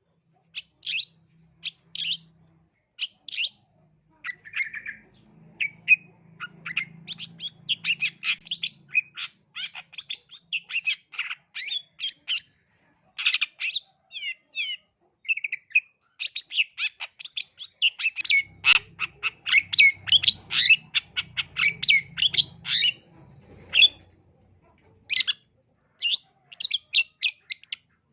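Long-tailed shrike (cendet) singing: sharp, chattering notes, spaced out at first and then in dense rapid runs with a few short pauses.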